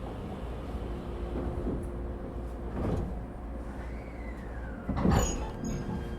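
Ride noise inside an ET127 series electric train car: a steady low rumble, with two sharp knocks about three and five seconds in, the second the louder, and a brief falling tone in between.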